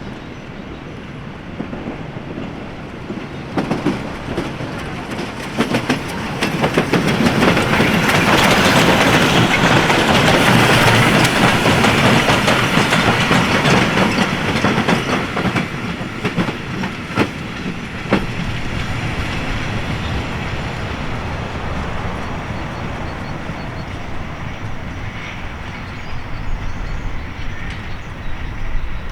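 Steam-hauled passenger train behind the locomotive Tubize 2069 passing close by, its wheels clattering over the rail joints. The sound builds, peaks a few seconds in, then slowly fades as the train goes on.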